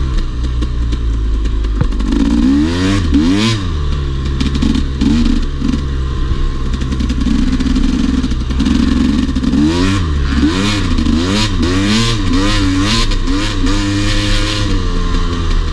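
Dirt bike engine running under riding, the revs rising and falling repeatedly as the throttle is worked, with steadier stretches in between.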